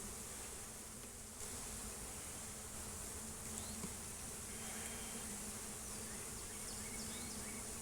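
Honeybees buzzing around an open hive during an inspection, a steady hum of many wings.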